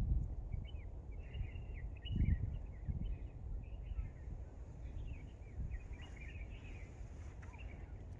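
Small birds chirping and calling repeatedly in quick short notes, over a low steady rumble, with a dull thump about two seconds in.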